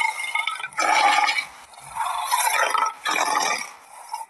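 Jaguar giving a series of harsh, breathy hisses, three bursts of under a second each, about a second apart.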